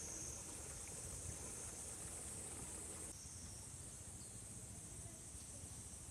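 Faint outdoor ambience: a steady, high-pitched chorus of insects (crickets or cicadas), with a low rumble underneath.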